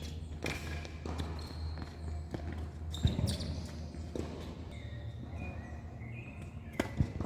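A few sharp tennis ball impacts: the loudest comes about three seconds in, and two follow close together near the end, over a steady low hum.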